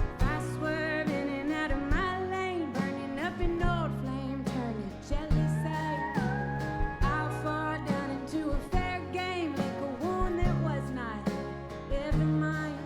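Live band playing a country-tinged indie rock song: a woman sings over a steady drum beat, bass and guitars, recorded from the crowd.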